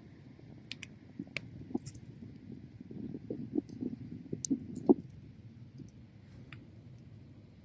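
Wood bonfire crackling: sharp pops and snaps of burning wood over the low, steady sound of the flames, with a quick run of louder pops about three to five seconds in.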